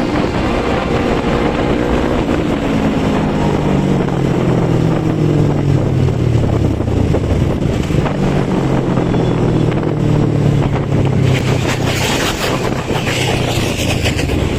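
Motorcycle engine running on the road under heavy wind noise on the microphone. The engine note falls over the first several seconds, then rises again and holds.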